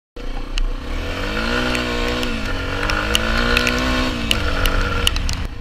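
Dual-sport motorcycle engine revving through two accelerations, rising in pitch and dropping back each time, with scattered sharp ticks over it.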